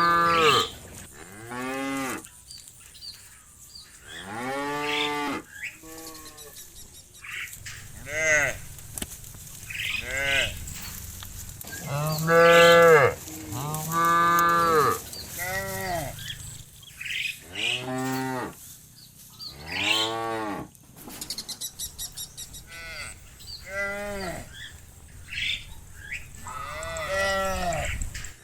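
A herd of cattle mooing again and again, one drawn-out call after another about every one to two seconds, some louder and closer, some fainter.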